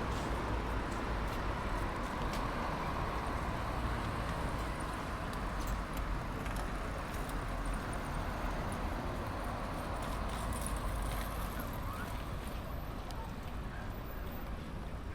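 Steady ambient noise of a busy urban space: a constant low rumble with scattered faint clicks and footsteps.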